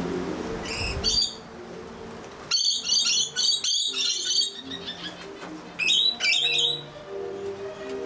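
Songbirds chirping: a couple of high chirps about a second in, a quick run of rapid chirps in the middle, and another short burst about six seconds in, over low steady tones.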